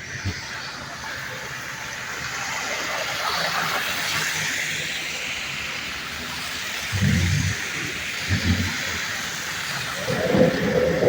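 City street traffic: a steady hiss of passing vehicles that swells a couple of seconds in and eases off, with a few short low sounds later on.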